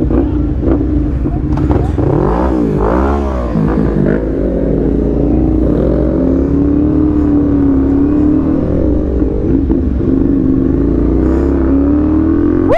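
CFMoto 450SR parallel-twin engine running under way. The revs swing up and down a few times about two to four seconds in, then hold fairly steady, over a constant low rumble of wind on the microphone.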